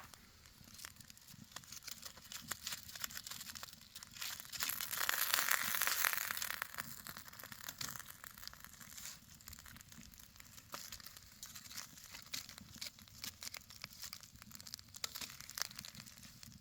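Rissoles, burgers and onion sizzling on a camp barbecue plate: a continuous fine crackle with many small pops, louder for a couple of seconds about five seconds in.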